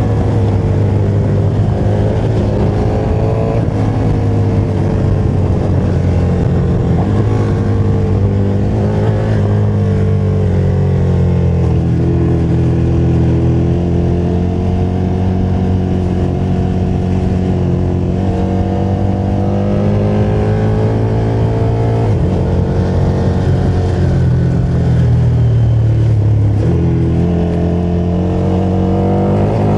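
KTM motorcycle engine running under way, its pitch rising and falling with the throttle, with a drop in pitch near the end.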